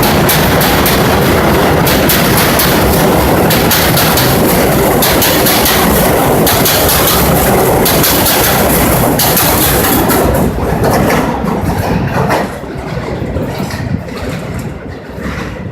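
R62 subway train running on the rails: a loud steady rumble with rapid clickety-clack of wheels over rail joints. The sound dies down in steps over the last five seconds.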